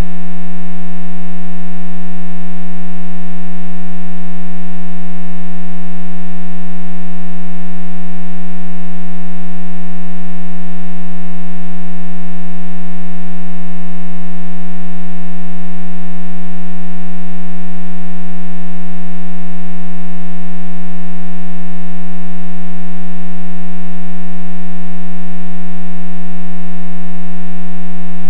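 Loud, steady electrical buzz: one unchanging low pitch with many overtones, no variation at all.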